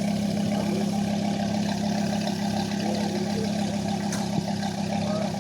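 A car engine running steadily with an even, unchanging hum.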